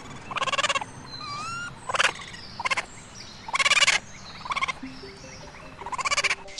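An animal's short rattling calls, about six in a row, each under half a second, with thin chirps in between.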